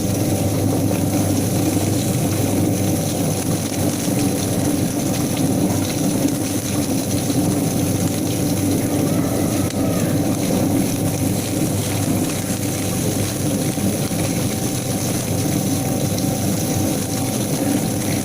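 Quail feather-plucking machine running steadily: a constant motor hum with a few held tones under an even whirring noise from the spinning plucker.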